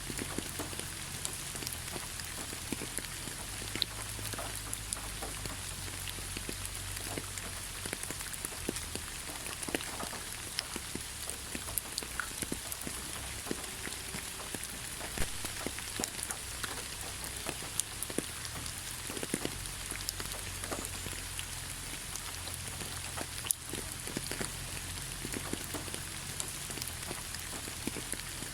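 Steady gentle rain falling on leaves, a constant hiss with many scattered individual drop taps.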